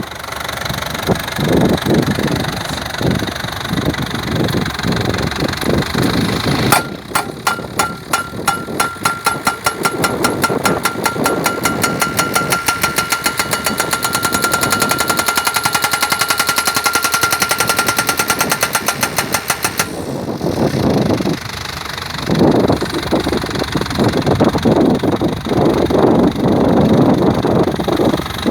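Hydraulic guardrail pile driver hammering a post: rapid, even blows, several a second, start about seven seconds in, run for about thirteen seconds with a steady metallic ring, then stop abruptly. The machine's engine runs throughout.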